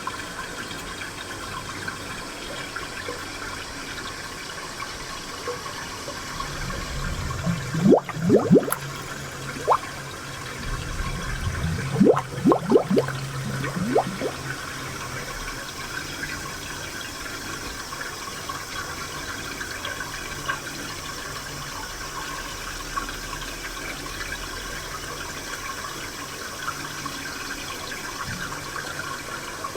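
Japanese spring water flowing steadily, with two bursts of gurgling about eight seconds in and again around twelve to fourteen seconds in.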